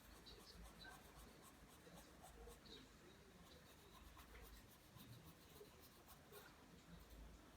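Pencil drawing lines on paper: faint, repeated scratching strokes of the lead across the sheet.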